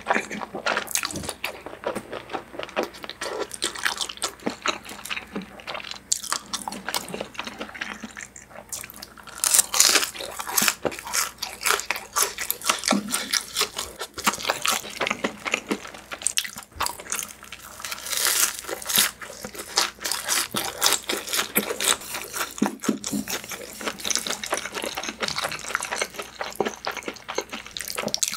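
Close-miked eating sounds: wet chewing of food with crunchy bites and many small, irregular mouth clicks and smacks, a little louder about ten seconds in and again a few seconds before the end.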